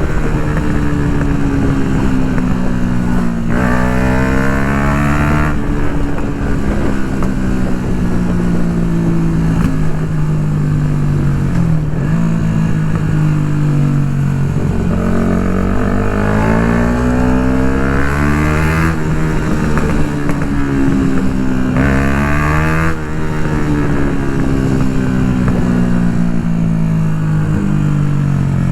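Yamaha MT-125's single-cylinder 125 cc four-stroke engine through an Akrapovic full exhaust system, on the move. The engine note climbs as it revs up, drops suddenly at each gear change, and in one stretch winds down slowly as the bike slows.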